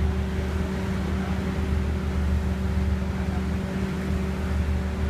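Steady running drone of a train, with a constant low hum made of several steady tones over even rumble.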